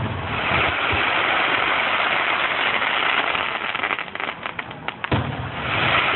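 Fireworks going off: a dense, continuous crackle, with a run of sharp cracks about four seconds in and a low boom about five seconds in.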